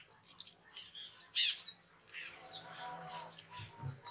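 Birds chirping: short downward-slurred chirps and one longer, steadier call a little past the middle.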